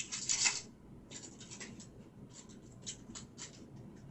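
Trading cards sliding and rubbing against one another as a pack is flipped through by hand: a run of short, irregular papery swishes, the loudest about half a second in.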